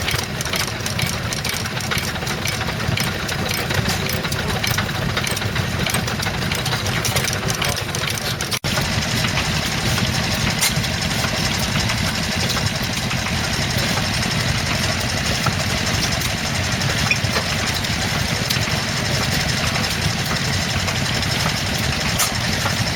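Vintage stationary engines running steadily, with a brief drop-out about nine seconds in.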